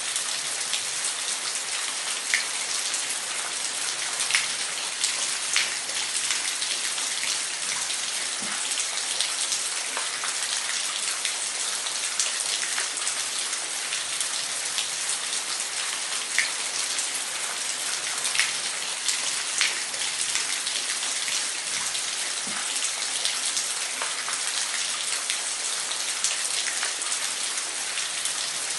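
Falling water splashing steadily: an even rushing hiss with many small drip-like ticks scattered through it.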